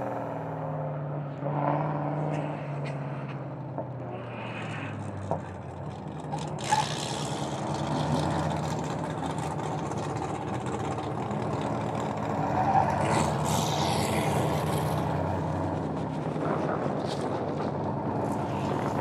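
Car engines running at a steady, moderate pace with little revving. From about six and a half seconds in, a rushing of wind and tyre noise joins them.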